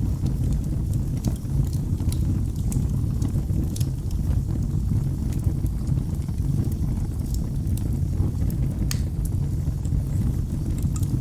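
Wood fire crackling in a fireplace: a steady low rumble of the flames with irregular sharp pops and snaps, a few a second, one sharper snap about nine seconds in.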